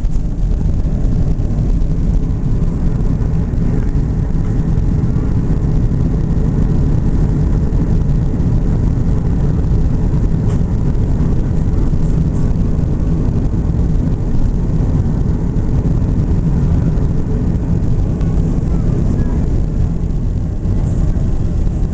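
Airbus A330 cabin noise during landing: a loud, steady low rumble of engines and airflow, heard from inside the passenger cabin.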